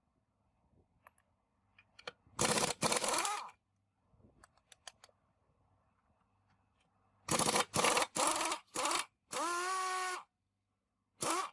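A power tool running in short bursts of about a third of a second each, with light metallic clicks in between. One longer burst near the end rises in pitch as it spins up, then holds a steady whine for about a second.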